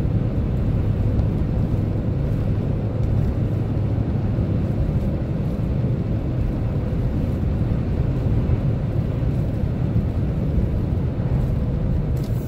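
Chevrolet Silverado pickup driving, heard from inside the cab: a steady low rumble of engine and tyre noise.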